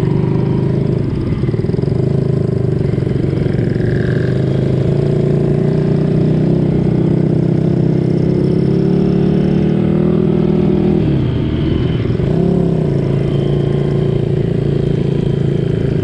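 Small vintage Honda motorcycle engine under way, its pitch climbing steadily as it accelerates for about ten seconds, then dropping sharply for a moment as in a gear change before pulling up again, over a rumble of rushing air on the microphone.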